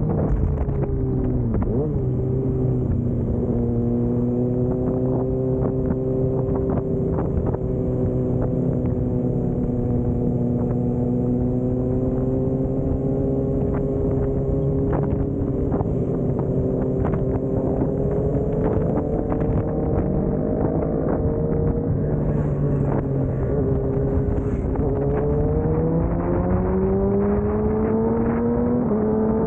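Motorcycle engine running at a steady cruise, heard from on board with road and wind noise. Its pitch sags a little about two-thirds of the way through, then rises near the end as the engine accelerates.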